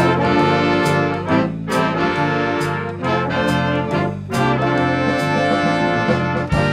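A student band playing brass-led music in a jazz style: trumpets and trombones over a bass line that moves note by note, with a cymbal struck about once a second.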